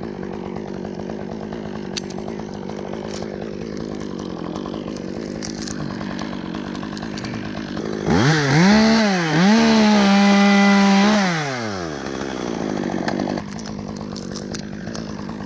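Chainsaw idling, then revved up for about four seconds a little past halfway, the pitch climbing, dipping once and holding high before dropping back to idle.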